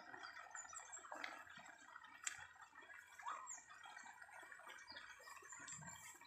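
Quiet garden ambience with faint, scattered bird chirps and a couple of soft clicks about one and two seconds in.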